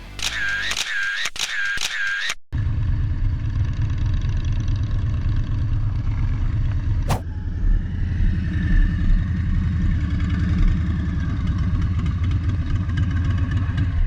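Motorcycle engine running steadily under way, a loud low rumble that cuts in about two and a half seconds in, with one brief click in the middle. Before the rumble comes a quick series of repeated high-pitched chirps.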